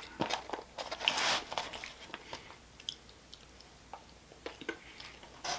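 Close mouth sounds of biting into an al pastor taco and chewing it. The biting is loudest in the first second and a half, then quieter chewing follows.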